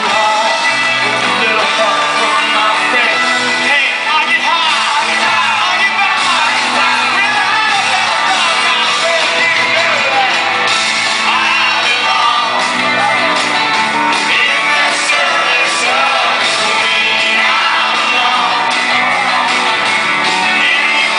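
Live rock band playing loudly with a lead vocal singing over it.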